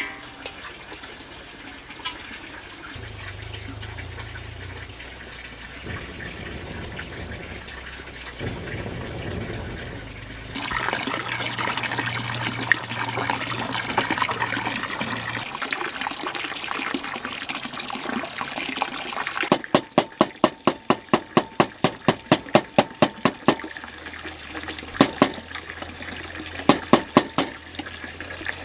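Water splashing and running for several seconds. From about twenty seconds in, steady rhythmic knocks follow, about three a second, in the way of food being chopped on a board.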